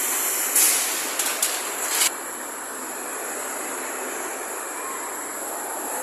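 A robotic welder's arc hissing and crackling for about a second and a half, then cutting off sharply, over a steady hum of shop machinery.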